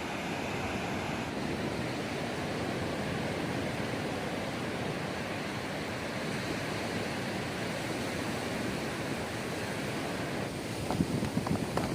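Steady rushing wash of sea surf breaking on the beach, with a few short knocks near the end.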